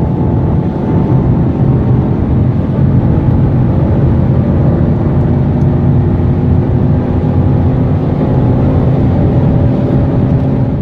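V8 muscle car engine running hard at high speed, loud and fairly steady, with a slight change in its note about nine seconds in.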